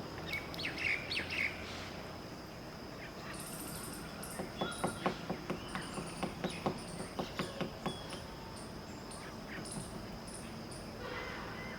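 Woodpecker pecking at wood: a run of about twenty sharp, irregular knocks, some five a second, over three or four seconds in the middle. A few short chirps come about a second in. A steady high whine and scattered high chirps run underneath.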